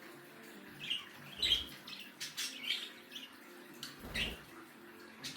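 Pet budgerigars chirping in short, scattered calls, with two soft low thuds about one and a half and four seconds in.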